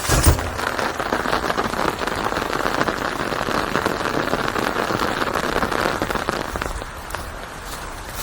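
Steady rain falling, a dense patter of many small drops, with one sudden loud thump just after the start. The rain eases a little near the end.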